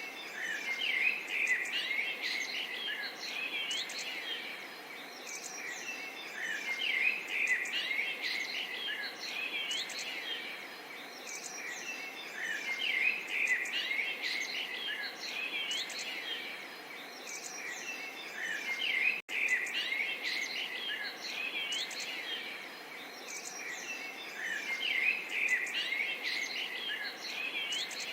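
Small songbirds chirping and twittering in bursts every few seconds over a steady hiss of gently babbling water. A split-second dropout cuts the sound about two-thirds of the way through.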